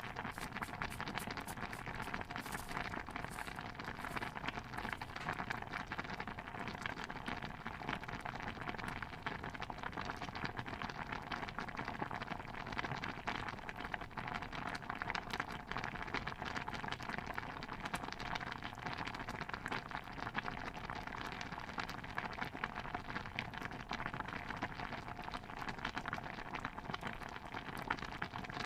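Layered cooking-ambience soundscape: a dense, steady patter of fine pops and ticks, with no change in level throughout.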